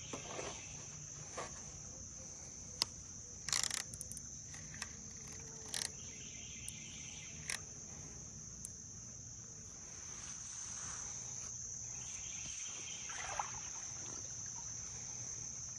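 Steady high chirring of crickets, with a few sharp clicks and short knocks scattered through it.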